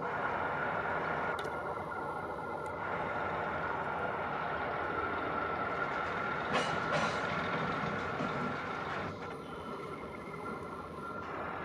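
Train rushing past, a steady rumbling noise with a high steady tone over it. There are a couple of sharp clicks near the middle, and it gets a little quieter near the end.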